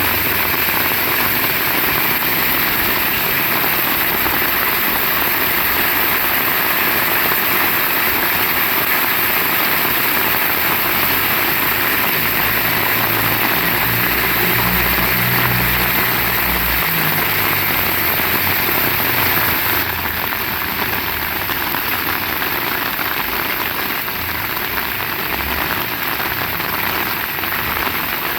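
Heavy rain falling steadily. A low engine hum runs under it, strongest in the middle. About two-thirds of the way through, the rain turns a little quieter and less hissy.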